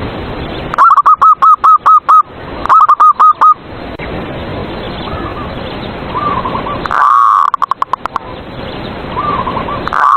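Zebra dove (perkutut) singing. There are two runs of loud, rapid, clipped cooing notes in the first few seconds, then a long call breaking into a fast trill about seven seconds in, and another beginning at the very end. Fainter coos come in between over a steady hiss.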